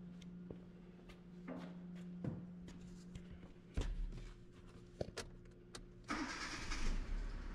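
2010 Hyundai Accent's 1.6-litre four-cylinder engine being started: a few light clicks and knocks, then about six seconds in the engine starts and keeps running.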